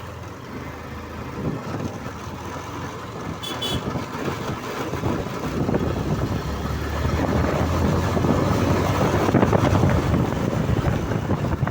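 Motorcycle riding along a road, engine and road noise mixed with wind rushing over the microphone, growing louder from about halfway through. A brief high beep sounds about three and a half seconds in.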